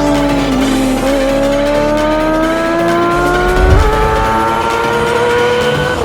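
Kawasaki ZX-25R's 249 cc inline-four revving high, its pitch climbing steadily with a sudden jump up about four seconds in, over background electronic music.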